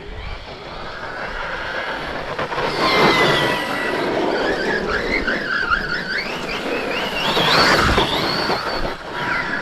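Brushless electric motor of a 1/8-scale RC monster truck whining and rising and falling in pitch with the throttle, over a rough rushing noise, loudest about three seconds in and again near eight seconds.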